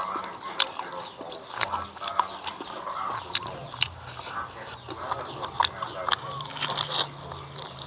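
Close-up eating: a person chewing a mouthful of rice and raw leafy vegetables, with sharp wet clicks and crunches every second or so.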